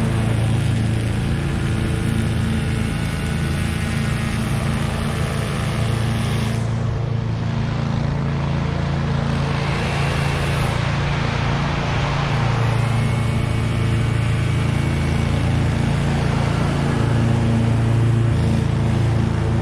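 Husqvarna V554 stand-on zero-turn mower's engine running steadily while mowing.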